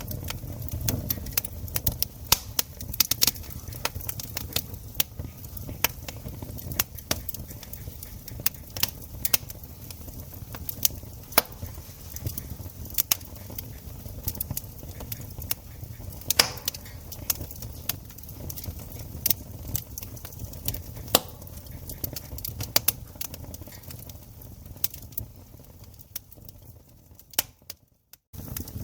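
Campfire wood burning, crackling and popping irregularly with sharp snaps over a low steady rumble of the flames. The sound drops out completely for under a second near the end.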